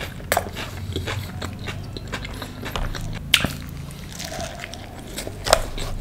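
Close-miked biting and chewing of a folded pizza slice: wet mouth clicks and smacks, with the two loudest bites about three and a half and five and a half seconds in.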